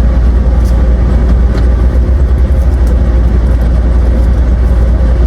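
A car running, heard from inside the cabin as a loud, steady low rumble.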